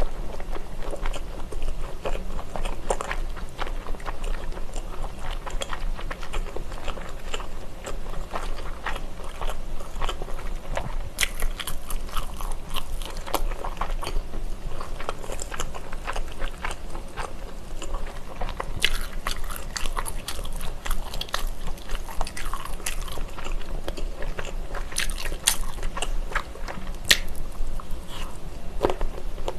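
Close-miked chewing and biting of sauced sausages from a skewer: wet mouth sounds with repeated crisp snaps as the casings break. The bites come in clusters.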